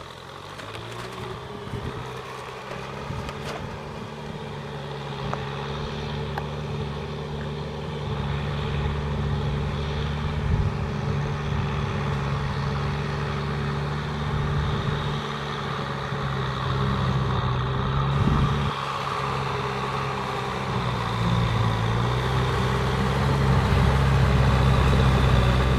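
Kubota M6040SU tractor's four-cylinder diesel engine running steadily and getting louder throughout. Its note dips briefly and picks back up about three-quarters of the way in.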